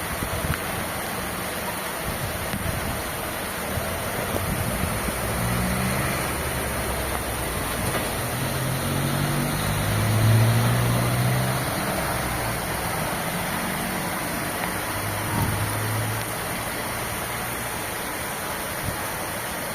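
Steady rain with a motor vehicle passing. Its low engine hum comes in about a quarter of the way through, is loudest around the middle, and fades out about three quarters of the way in.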